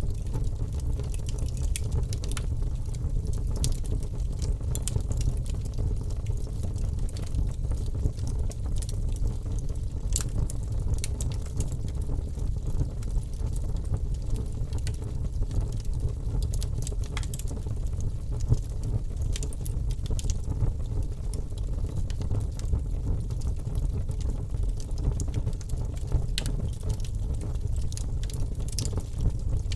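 Wood fire crackling in a fireplace: a steady low rumble from the flames with scattered sharp pops and crackles, one louder pop a little past the middle.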